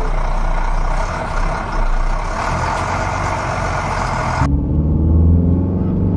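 Motor vehicle engine sound effect. A loud, noisy running engine switches abruptly, about four and a half seconds in, to a lower, steady engine hum.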